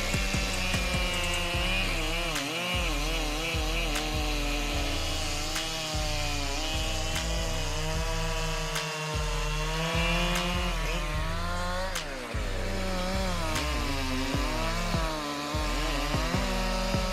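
Chainsaw cutting wood, its engine pitch rising and dipping again and again as it works through the cut.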